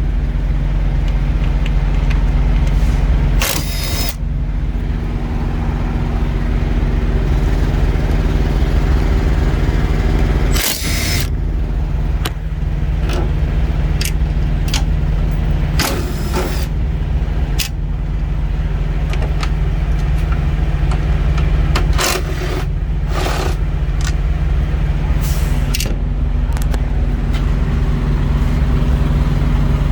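Diesel engine idling steadily, with a handful of short sharp knocks and clacks from handling things close by.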